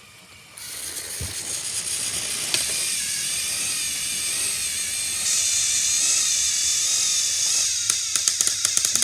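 Motors of battery-powered Thomas & Friends toy train engines whirring steadily in a strength contest, with rapid clicking near the end.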